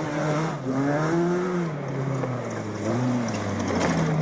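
Rally car engine revving hard, its pitch rising and falling again and again as the driver goes up and down the revs, growing louder near the end.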